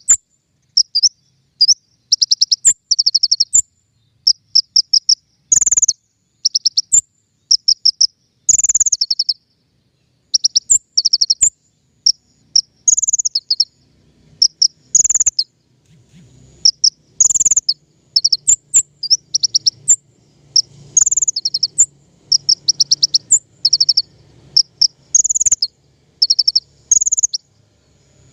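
Konin songbird singing: short, very fast high-pitched trilled phrases, one every second or two, the song played as a lure and tutor recording for wild and caged birds. A few sharp clicks fall among the phrases.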